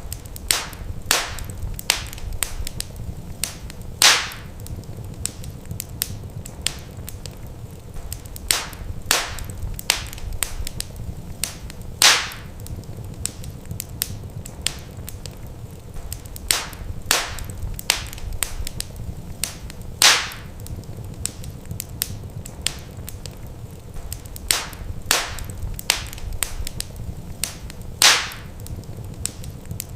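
Wood fire crackling in a fireplace: irregular sharp snaps and pops over a steady low rumble. A louder pop comes about every eight seconds, and the whole pattern of snaps repeats at that interval.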